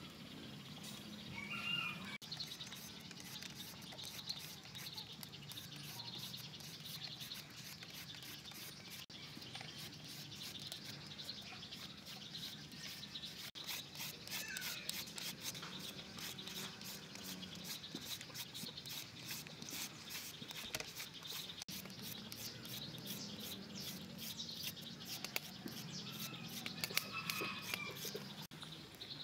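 Faint outdoor ambience with a few short bird chirps spread far apart, over a run of quick, light scraping strokes from a hand julienne peeler shredding green papaya and carrot.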